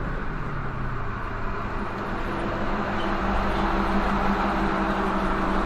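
Vehicle on the move: steady road and engine noise with a low, even hum, and a second steady tone joining about two seconds in.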